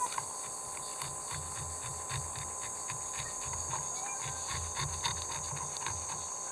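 Steady high-pitched insect chorus. Over it come a run of irregular short clicks and soft low thuds from something being handled close by.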